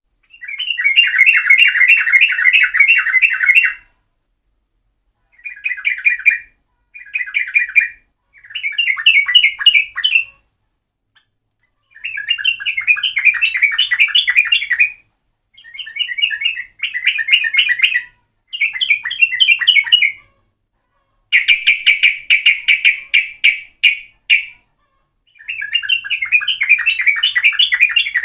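Yellow-vented bulbul (trucukan) singing in bouts of quick, bubbly chattering notes, each bout about one to three seconds long, separated by short pauses.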